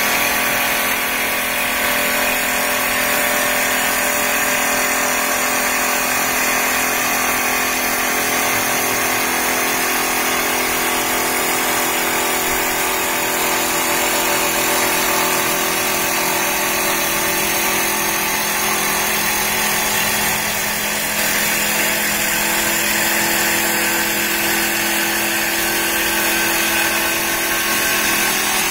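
Two-spindle CNC wood lathe (CW-1520-2) running and turning wood: a steady motor hum under a continuous cutting noise, with no break.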